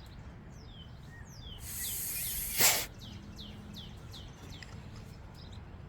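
A songbird calling with a run of short, downward-sliding chirps, over a steady low outdoor rumble. About two seconds in, a hiss lasts about a second and ends in a brief loud burst.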